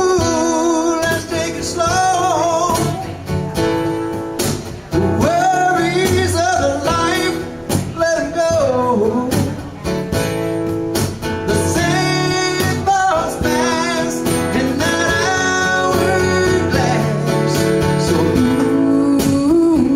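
Live acoustic country song: acoustic guitar strumming over a cajon beat, with a voice singing the melody.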